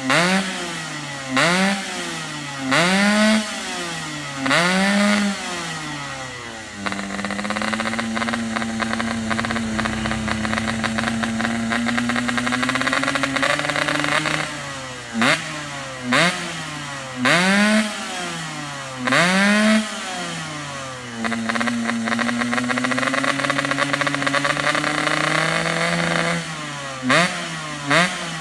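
Yamaha RX-King two-stroke single-cylinder motorcycle engine breathing through a GRT aftermarket exhaust, revved in about four quick throttle blips. It is then held at raised revs for about seven seconds, slowly climbing. Then come another four blips and a second long hold, and a run of short, rapid blips near the end.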